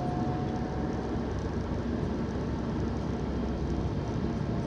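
Steady engine and road noise from a car being driven, heard from inside the cabin.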